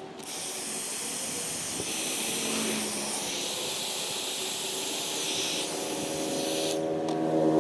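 A steady rushing hiss from a heat tool heating solder-seal wire connections, starting right away and cutting off sharply near the end. Music begins just after it stops.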